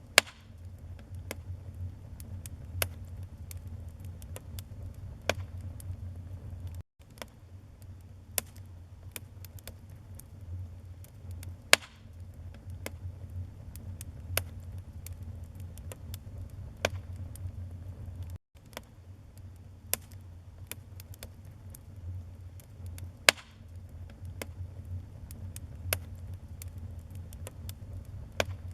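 Wood fire burning in a fireplace: a low steady rumble of flames with scattered crackles and sharp pops, three pops much louder than the rest. The sound cuts out for an instant twice, about a third and two thirds of the way through.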